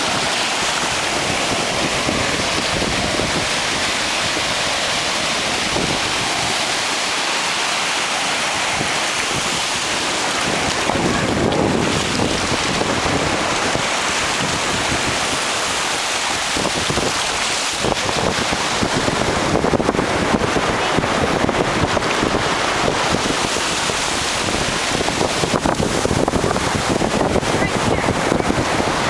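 Ocean surf washing on a beach, with wind buffeting the microphone; the rushing noise swells and eases several times.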